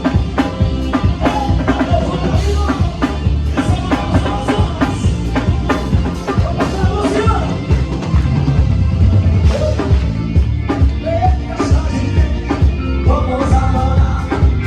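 Live band music with a full drum kit beat, bass and a sung or instrumental melody line over it.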